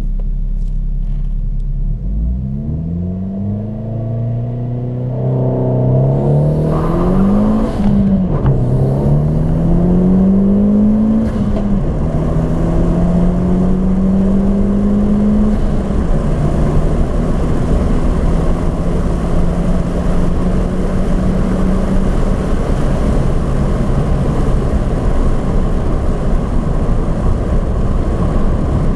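Turbocharged 2002 Ford Focus ZX3 Zetec four-cylinder engine launching and accelerating hard at full throttle. The engine note climbs steeply, drops at each upshift, and this happens three times about four seconds apart. Road and wind noise builds up until it covers the engine near the end.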